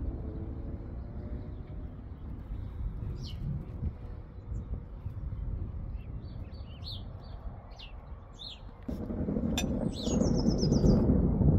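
Small birds chirping and calling, with a quick falling trill near the end, over a steady low background noise that grows louder about nine seconds in.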